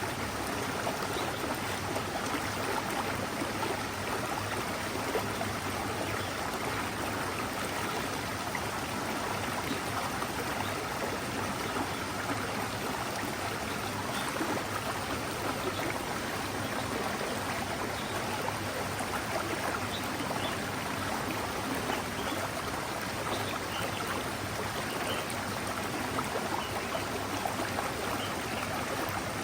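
Forest mountain stream flowing steadily, a constant rushing and trickling of water.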